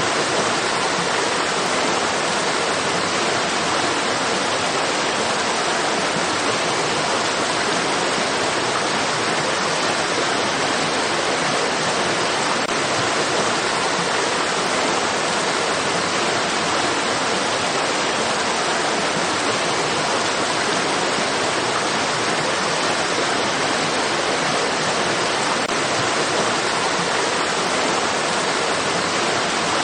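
Stream water rushing in a steady, even hiss, with no single splashes standing out and little deep rumble.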